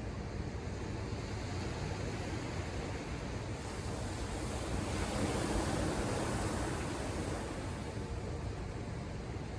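Ocean surf: a steady low rush of waves, with one wave breaking and hissing that swells about halfway through and dies back near the end.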